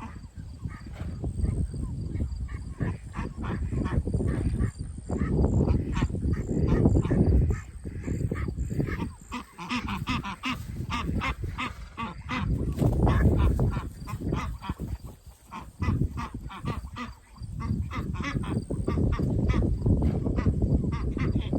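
A flock of ducks quacking, many short calls in quick succession, densest in the middle stretch, over a heavy low rumble.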